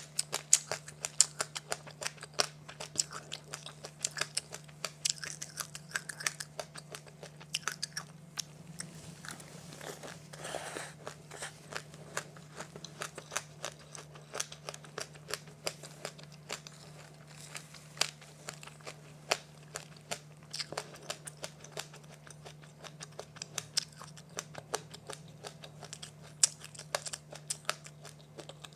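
Close-up crunching and chewing of a crisp, crunchy snack: many quick, sharp crunches, thinning to softer chewing for a moment about ten seconds in. A steady low hum runs underneath.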